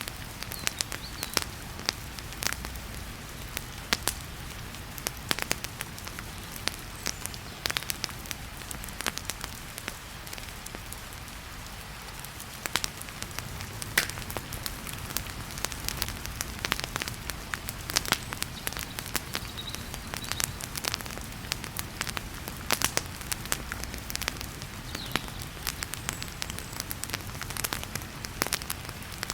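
Wood fire crackling with frequent irregular sharp pops over a steady hiss of heavy rain.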